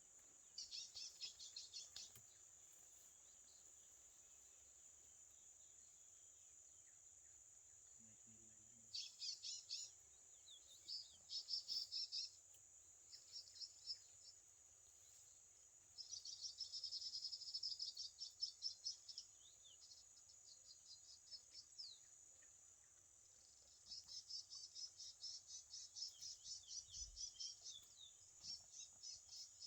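Curió (chestnut-bellied seed finch) singing in about seven bursts of rapid repeated high notes, each one to three seconds long with pauses between, the longest near the end. Under it runs a steady high hiss.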